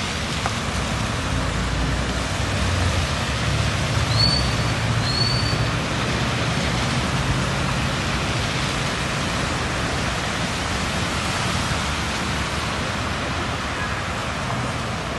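Steady rain with cars driving through a flooded street, their tyres splashing through standing water. A vehicle's low engine rumble swells and is loudest about four seconds in.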